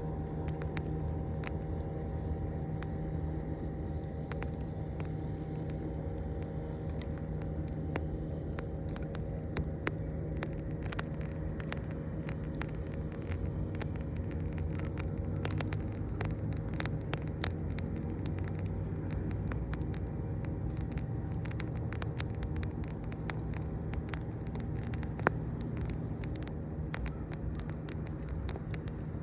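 Campfire crackling: scattered sharp pops and snaps, more frequent after the first third, over a steady low rumble.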